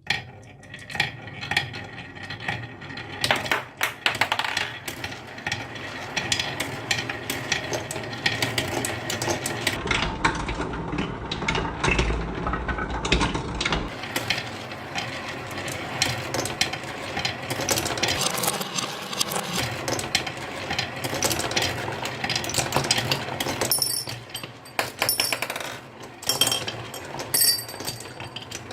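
Many marbles rolling and clattering down a wooden marble run, a dense stream of clicks and rattles, with a low rumble from about ten to fourteen seconds in and sharper clinks near the end.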